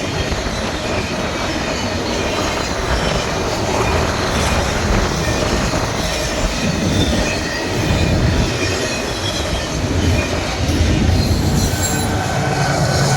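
Freight train rolling past: a steady rumble of cars on the rails, with thin, high wheel squeals coming and going over it.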